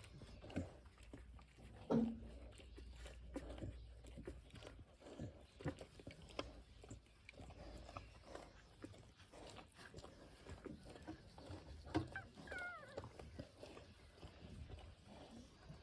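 Week-old Pungsan puppies squeaking and whimpering, with soft scattered shuffling and mouth sounds. There are a couple of louder knocks, and about twelve seconds in a short high whine falls in pitch.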